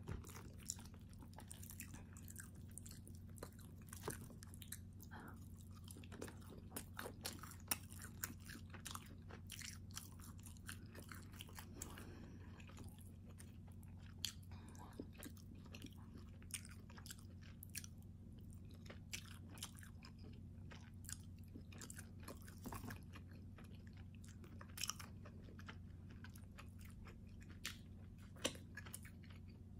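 Close-up eating sounds: a person chewing and biting soft calzone, with many small scattered mouth clicks and smacks. Fingers tear at the dough and cheese now and then, over a steady low hum.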